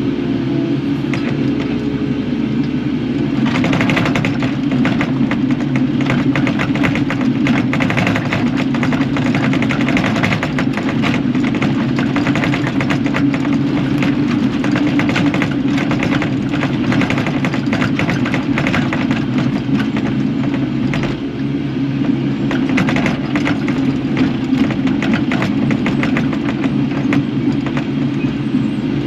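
Kubota KX080 excavator's diesel engine running steadily. About three and a half seconds in, a dense crackling rattle of machine work joins it and carries on.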